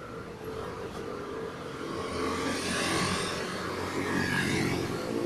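A motor vehicle passing close by on the street: engine hum and tyre noise grow louder over the first few seconds and stay loud.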